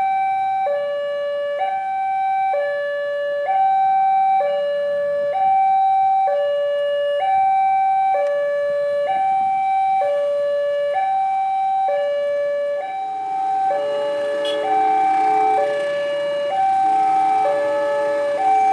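Railway level-crossing warning alarm sounding a two-tone signal, alternating high and low, each tone held just under a second. About two-thirds of the way through, a second, lower set of tones and a rising rush of noise join it.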